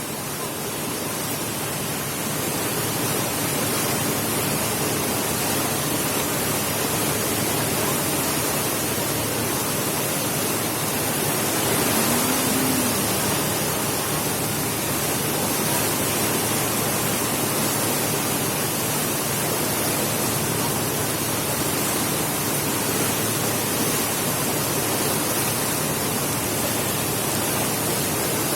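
Steady rushing noise of wind and water aboard a small passenger boat under way, with a low engine hum underneath.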